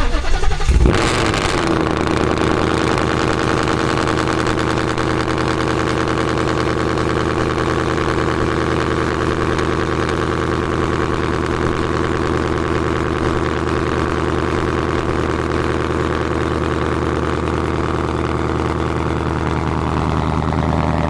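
Ford Mustang GT's 5.0 Coyote V8 cold-starting: it catches with a loud flare in the first second, then settles into a steady idle. The exhaust runs long-tube headers and a resonator-deleted H-pipe.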